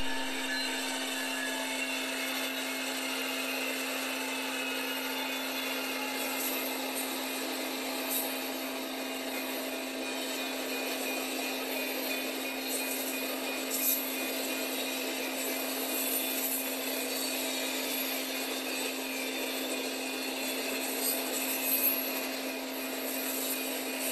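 Long intermodal freight train rolling past: a steady rush of steel wheels on rail with thin squealing tones, a few sharp clanks, and a constant hum.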